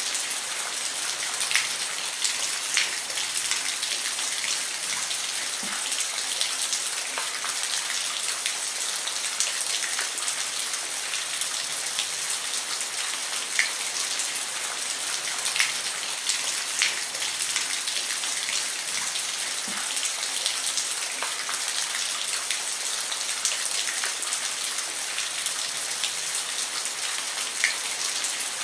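Steady rain falling on a roof, an even hiss with frequent single drops ticking out above it.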